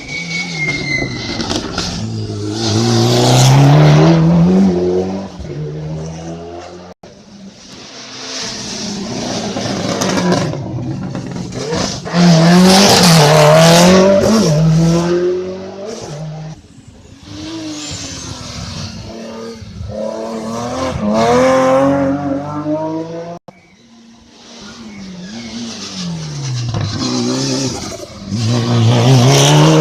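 Hill-climb race cars accelerating hard past one after another, engine pitch rising and dropping with each gear change. Several abrupt breaks separate the cars.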